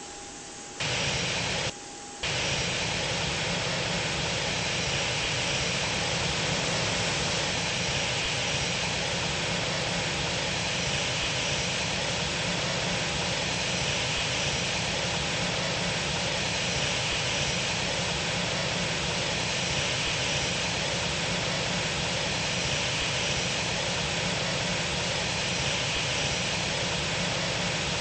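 Steady jet engine noise of a Lufthansa Airbus A320. It starts abruptly about a second in, drops out briefly, then resumes and holds steady.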